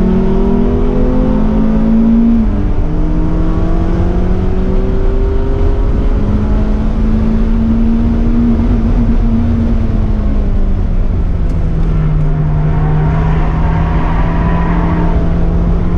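Mercedes 190E 2.5-16's 16-valve inline-four pulling hard on track, heard from inside the cabin. The engine note climbs, drops sharply at an upshift about two and a half seconds in, climbs again in the middle and eases off before holding steady, over steady road and wind noise.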